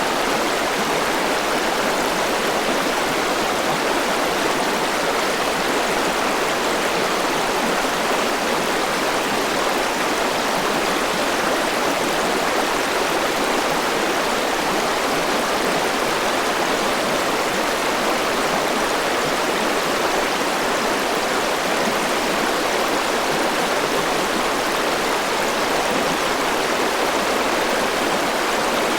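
Forest river rushing over rocks, a steady, even water noise.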